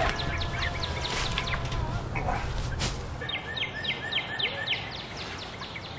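Birds chirping: scattered short, downward-sliding chirps, then a quick run of about seven in a row in the second half. A couple of sharp knocks sound in the first half over low outdoor rumble.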